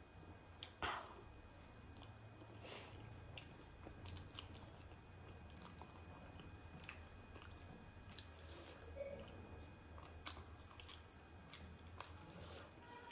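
Faint close-miked chewing of a steamed momo dumpling: soft wet mouth sounds with scattered small clicks, over a low steady hum.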